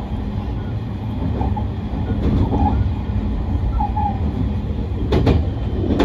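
Cabin sound of a moving Rapid Marine Liner electric train: a steady running rumble of wheels on rail, with a few sharp clacks from rail joints about five seconds in.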